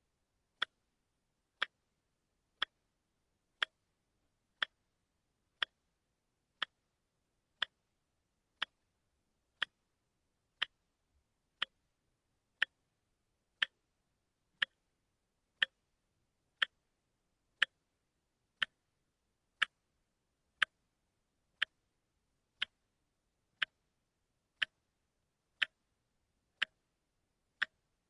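Watch ticking steadily, one sharp tick each second, the once-a-second step of a quartz movement.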